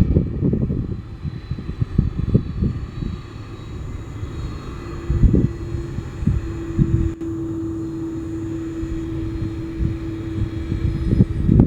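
Jet airliner engines running, mixed with gusty wind rumble on the microphone; a steady hum comes in about five seconds in and holds until near the end.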